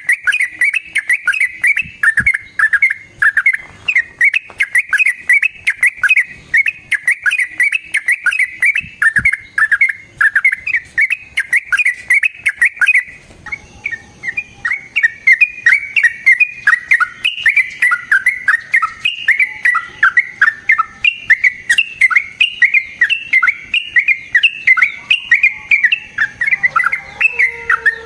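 Yellow-vented bulbul (trucukan) singing a long, fast run of short, bubbly chattering notes, with a brief break about halfway through.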